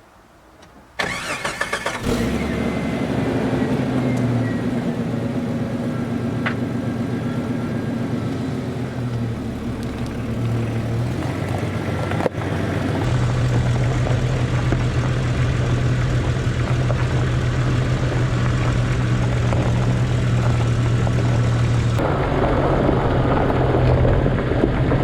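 1995 Jeep Cherokee XJ engine cranked by the starter and catching about a second and a half in, then running with a fast idle that slowly drops in pitch. About twelve seconds in the running changes to a strong steady low hum.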